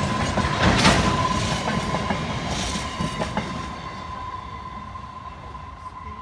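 Freight train wagons rolling past with a clickety-clack of wheels over the rail joints and a few sharp clanks. A steady high tone runs throughout. The sound fades as the train moves away.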